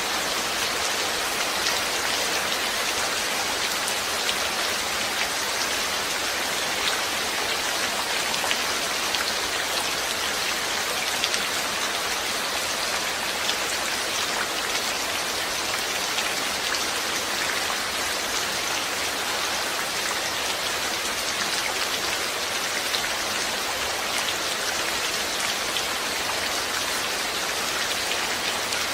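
Steady rain falling, with many fine drop patters on a surface over an even hiss.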